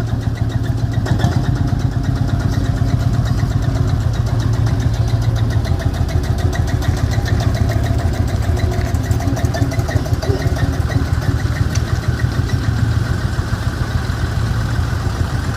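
A vehicle engine running steadily at idle, with a fast even beat of firing pulses and no revving.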